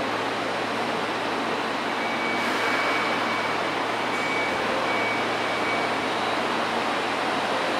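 HB-E300 series 'Kairi' hybrid railcar standing at the platform with its equipment running, a steady even noise with a low hum. A faint high tone comes and goes from about two to six seconds in.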